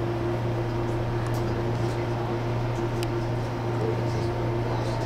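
Steady hum of an MTR Airport Express CAF train's air-conditioning and onboard equipment, heard inside the carriage while the train stands still, with a few faint ticks.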